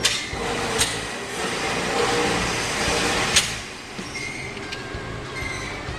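Three sharp gunshots over a steady rushing background noise: one at the start, one just under a second in, and one about three and a half seconds in.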